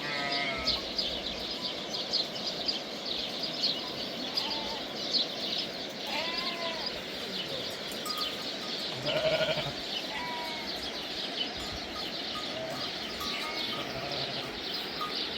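Sheep and goats of a herd bleating, with several separate calls rising over a steady high background of flock noise.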